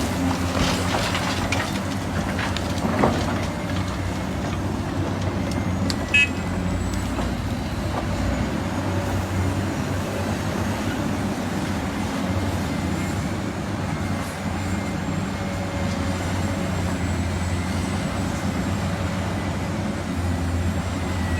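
Heavy construction machine engine running steadily, with a few knocks in the first three seconds and a short high beep about six seconds in.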